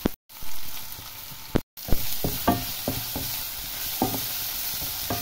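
Onion-tomato tadka masala sizzling in oil in a non-stick frying pan while a spatula stirs it. The spatula scrapes and knocks against the pan in a string of sharp taps through the second half.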